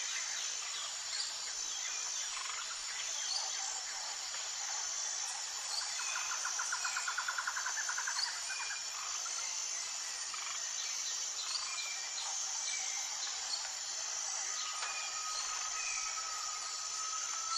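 Outdoor nature ambience: a steady, high-pitched insect chorus with scattered bird chirps, a rapid trill about six seconds in, and a held whistle-like note near the end.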